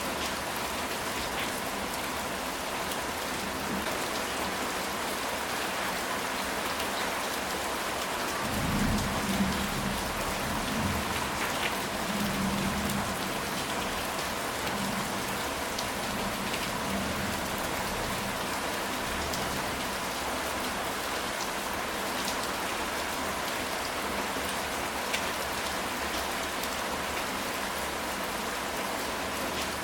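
Steady rain falling on a ceramic tile roof, with scattered drop ticks. A low rumble of thunder comes in about nine seconds in and dies away over a few seconds.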